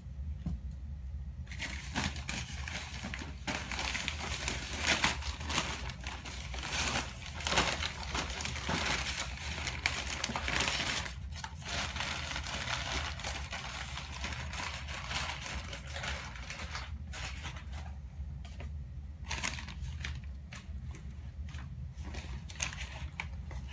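Packaging crinkling and rustling as a plant is unwrapped by hand, starting about a second and a half in and going on in spells with brief lulls. A steady low hum runs underneath.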